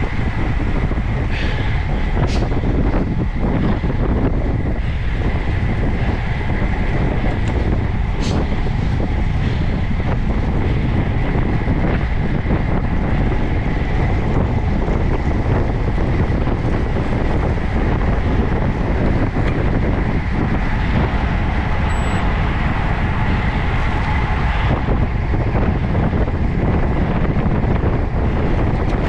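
Steady wind noise on the microphone of a camera riding along on a moving road bicycle, with a faint high steady tone and two sharp clicks in the first few seconds.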